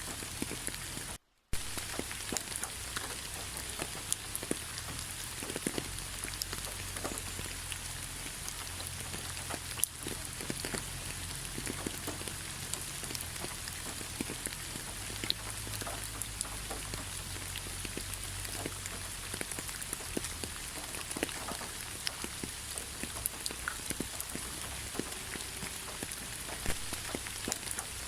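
Steady rain falling, with many separate drop hits through the hiss. The sound cuts out completely for a split second about a second in.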